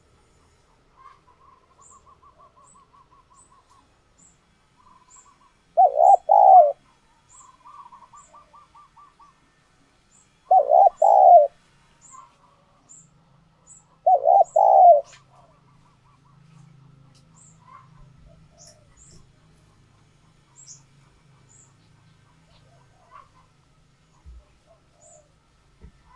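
Spotted dove cooing: three short, loud coo phrases about four seconds apart, the territorial song of a tame decoy bird used to call in wild doves. Faint high chirps of small birds and soft rapid note series lie between the phrases.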